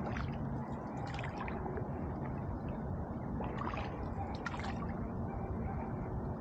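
Canoe paddling on a river: water splashing and dripping off the paddle blade a few times, over a steady low rush of moving water.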